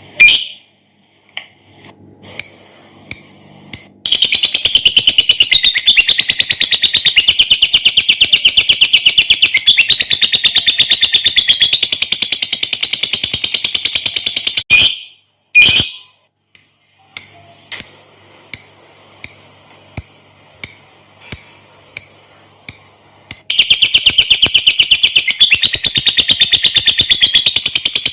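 Lovebird giving its long 'ngekek' chatter. Spaced sharp chirps, about three a second, lead into a very fast rattling trill lasting about ten seconds. After a short break come more spaced chirps, and then another long trill starts near the end.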